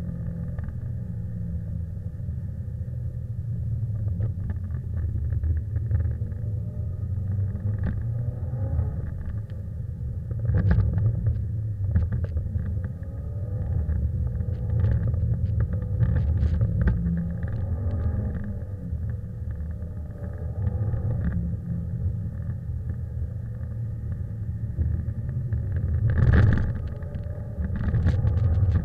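Subaru Impreza's flat-four engine heard from inside the cabin, a low rumble rising and falling as the car is driven sideways on a wet track. A few sharp knocks cut through it, the loudest near the end.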